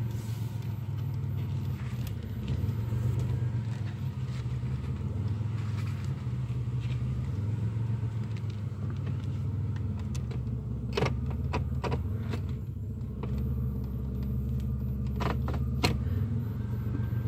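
1995 Oldsmobile Cutlass Ciera engine idling steadily after a cold start, a smooth, even low hum. A few light clicks come through about two thirds of the way in and again near the end.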